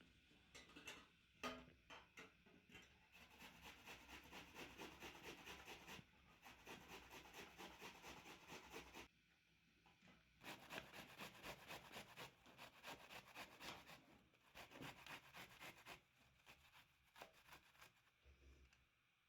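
Quick, rhythmic rasping strokes of hand food preparation, in two long runs of several seconds with a pause between and a few scattered clicks near the start.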